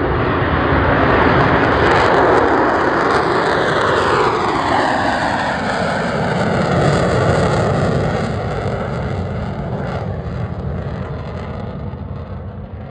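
F-35 fighter jet on takeoff, its single jet engine a loud roar that passes, then sinks in pitch with sweeping falling tones as it climbs away. The roar fades steadily over the last few seconds.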